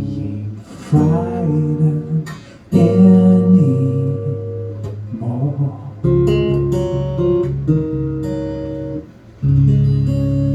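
Live acoustic guitar strumming chords, in four phrases that each start sharply and ring on, with short breaks between them.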